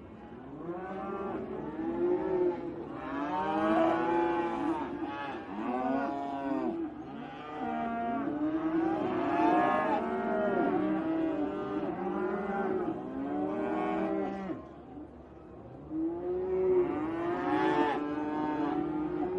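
Holstein dairy cows mooing, many long calls overlapping one another, with a short lull about fifteen seconds in.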